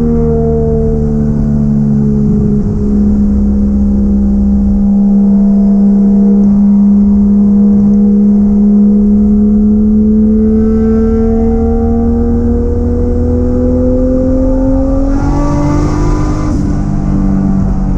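Toyota 1JZ-GTE VVTi turbocharged inline-six in a Nissan 240SX S13 driving under steady load, its note sagging slightly and then climbing. Near the end the note breaks and changes pitch with a short hiss of the blow-off valve venting.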